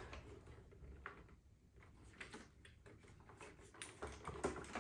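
Faint, scattered light taps and clicks from the plastic robot vacuum dock being handled, over quiet room tone.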